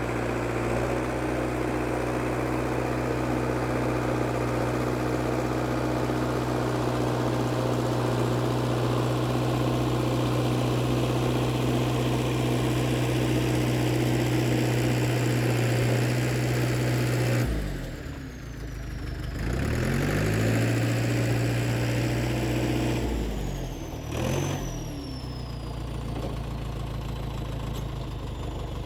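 IH TD8E bulldozer's diesel engine running steadily. About two-thirds of the way in, its speed drops sharply and climbs back, twice in a few seconds. It then runs on a little quieter.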